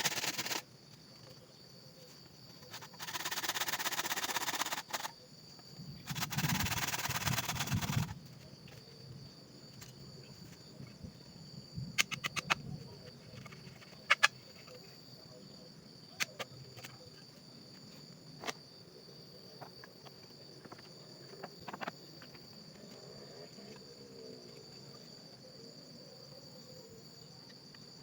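Crickets or other insects chirring steadily at a high pitch. Two loud stretches of rustling noise, each about two seconds long, come about three and six seconds in, and scattered sharp clicks and knocks come later from handling gear at the camp.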